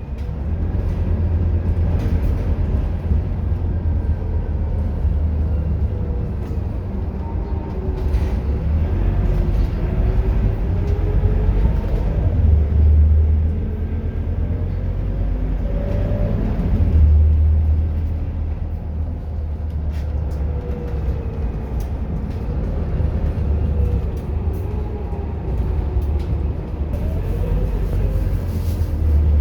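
Scania K230UB Euro 4 city bus running over a heavy low rumble, with its engine and transmission whine rising and falling several times as it speeds up and slows.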